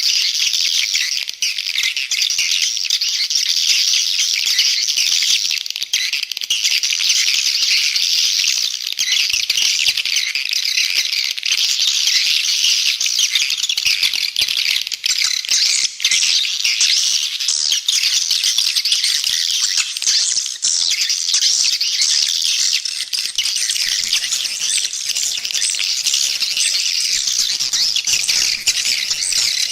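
Dense, continuous high chirping and twittering of a flock of swiftlets, a swiftlet call recording of the kind played to lure swiftlets into a nesting house.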